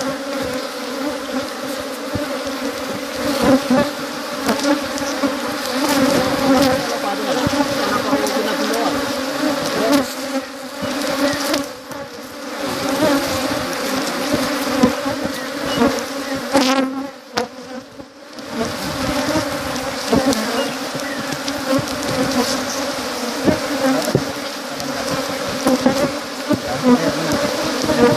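A mass of honeybees buzzing, a loud, dense, steady hum that thins out briefly twice, about twelve seconds in and again around seventeen seconds in.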